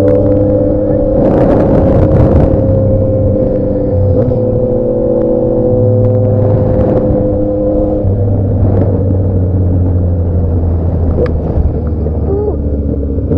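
Motorcycle engine running at steady revs with a low drone and a held tone, with louder rushes of noise about one and a half and six seconds in.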